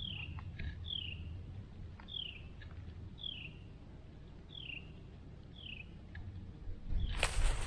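A bird calling six times, each a short high note sliding down, about once a second; the hiker takes it for an owl. Footsteps crunch through dry leaves near the end.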